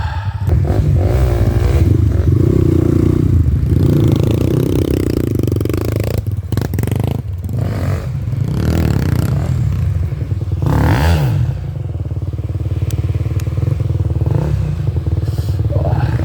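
Off-road motorcycle engine running steadily at low revs, with a few short clattering knocks.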